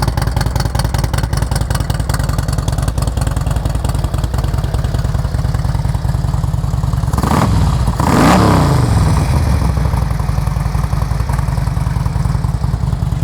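2008 Harley-Davidson Screamin' Eagle Ultra Classic's 110 cubic-inch V-twin idling through Vance & Hines exhaust. About seven seconds in it is revved twice in quick succession, the second rev the louder, then settles back to a steady idle.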